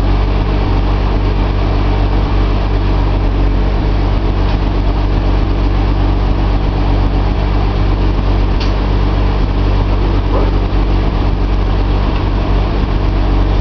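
Nissan L28 2.8-litre straight-six engine running steadily at idle on an engine test stand.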